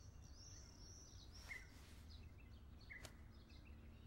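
Near silence with faint, scattered bird chirps and a single faint click about three seconds in.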